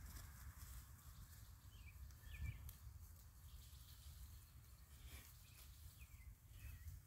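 Near silence: a faint low rumble with a few short, faint bird chirps about two seconds in and again near the end.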